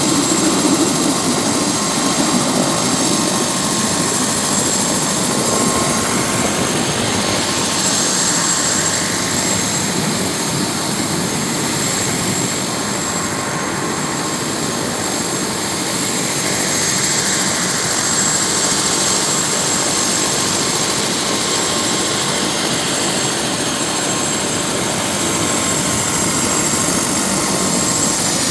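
Helicopter close by, its rotor and engine noise loud and steady, with a thin high whine held over it throughout.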